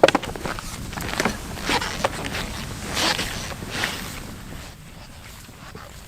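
Backcountry skis swishing and crunching through fresh snow in a steady run of strides, a stroke every half second or so. The strokes grow fainter after about four seconds.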